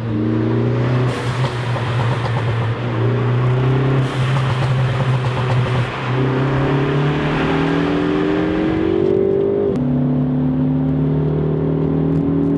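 Ford Focus ST Mk3's turbocharged 2.0-litre four-cylinder engine under hard acceleration, its pitch climbing as it pulls, with a few brief breaks where the gears change.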